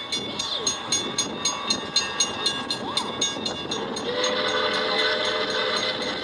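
A passing steam excursion train's cars rattle by with rapid, evenly spaced wheel clicks on the track. About four seconds in, a train whistle starts a steady, held note.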